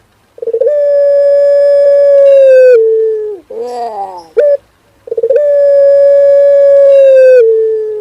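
Male Pelung turtle dove cooing in its long drawn song: two long held coos, each stepping down in pitch at its end, with a quick wavering rising-and-falling phrase between them.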